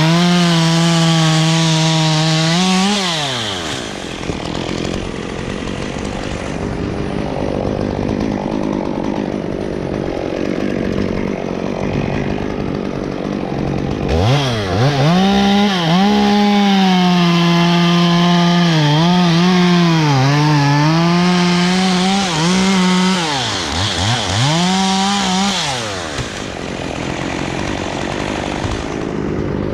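Two-stroke chainsaw at full throttle, cutting wood. It drops back to a low rough running about three seconds in, revs up again about halfway through and is held high with brief dips in pitch under load, then drops back near the end.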